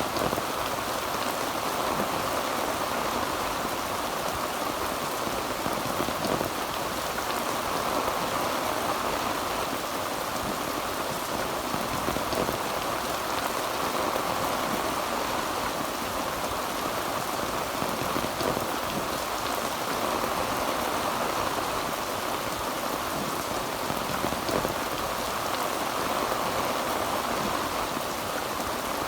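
Heavy rain drumming steadily on a tin roof, a dense even patter with no let-up.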